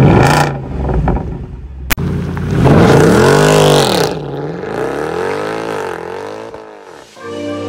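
Mercedes C63 AMG's 6.2-litre V8 revving hard, its pitch rising and falling, then fading as the car drives away. A sharp crack about two seconds in; music comes in just before the end.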